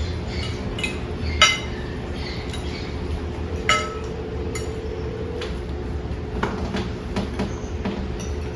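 Cutlery and dishes clinking: scattered light taps, with two sharper ringing clinks, about a second and a half in and again near the four-second mark, over a steady low hum.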